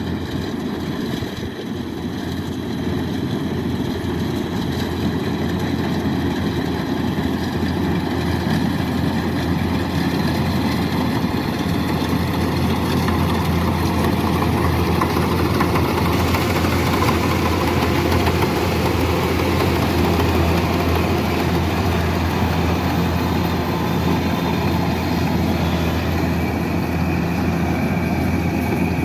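Kubota DC-108X combine harvester's diesel engine running steadily with a constant low drone, growing a little louder over the first few seconds.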